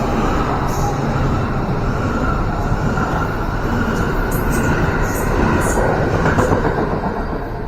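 A train running through a railway station with a steady, loud rumble of wheels on the rails, and a few short high squeaks between about four and six seconds in.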